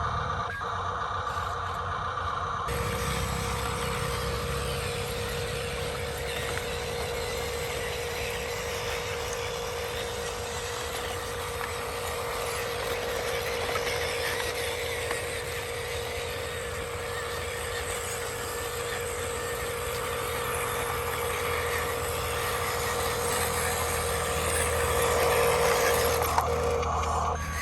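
Steady engine-like running sound of RC construction vehicles, with a low rumble and a steady hum. It changes abruptly about two and a half seconds in.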